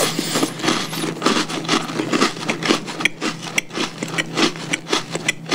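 Close-miked chewing of a crunchy Oreo cookie with the mouth closed: a quick, irregular string of crisp crunches, several a second.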